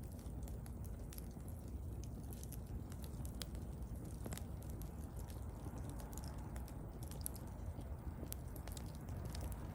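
Bonfire burning: a steady low rumble of flames with scattered sharp crackles and pops.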